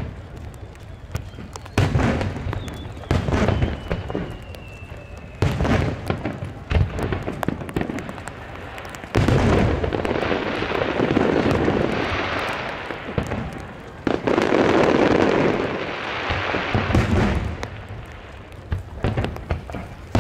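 Aerial fireworks shells bursting: a string of separate sharp booms, then two stretches of several seconds each where the bursts come so thick they merge together, then separate booms again.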